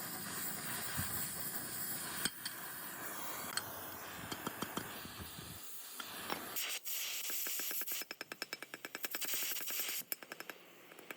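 Steady hiss with scattered clicks. About seven seconds in it changes to a fast, even mechanical rattle of about eight or nine strikes a second, which stops briefly near the end and starts again.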